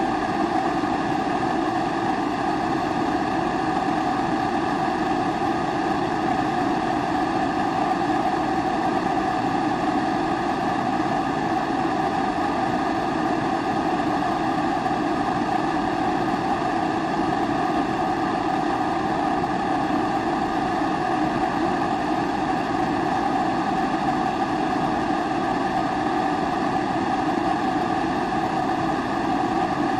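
Pressurised kerosene primus stove burning: a steady, even rushing sound that does not change.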